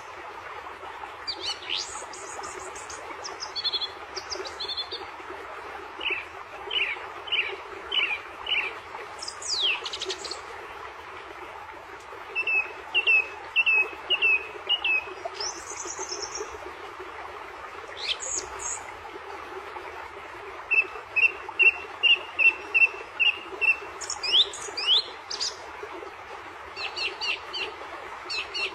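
Bird song: phrases of short chirps repeated several times in quick runs, with sweeping calls in between, over a steady background hiss.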